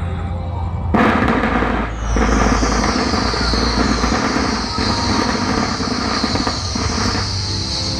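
Fireworks going off: a sharp bang about a second in, then a steady hissing crackle.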